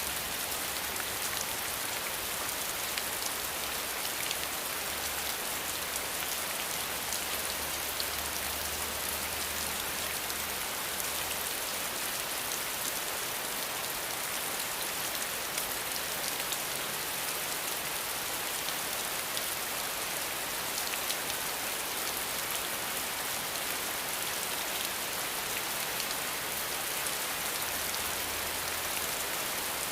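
Steady rain falling: a dense, even hiss with crisp individual drops pattering through it, and no thunder.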